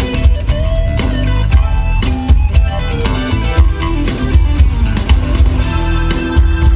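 Live rock band playing: electric guitar over a five-string bass guitar and a drum kit keeping a steady beat.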